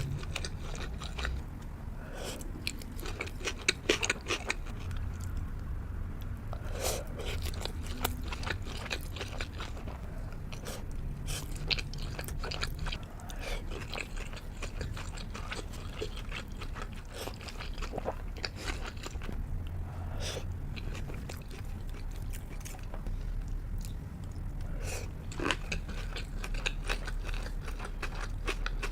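Close-miked chewing and biting of sushi and sashimi: many short, sharp mouth clicks and crunches over a steady low hum, with a few louder bites scattered through.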